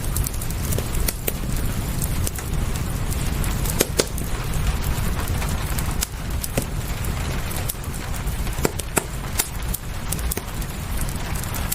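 Wood fire crackling, with irregular sharp pops, over a steady low rumble and the hiss of rain.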